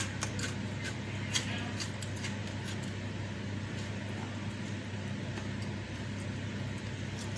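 Close-miked eating sounds: chewing, wet mouth clicks and fingers working rice on a tray, with sharp clicks mostly in the first couple of seconds. A steady low hum runs underneath.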